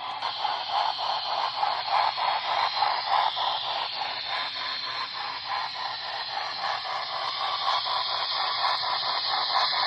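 Onboard Paragon4 sound system of an HO scale Great Northern S-2 4-8-4 model steam locomotive playing steam chuffing through its small speaker, an even, hissy rhythm of several chuffs a second, synchronized to the drive mechanism.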